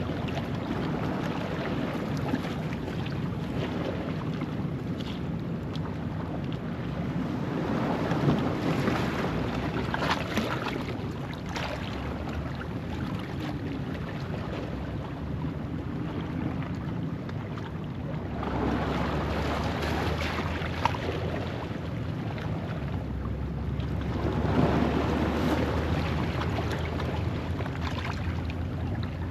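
Ocean waves breaking and washing over a rocky shoreline at low tide, swelling three times and ebbing between, over a steady low rumble of wind on the microphone.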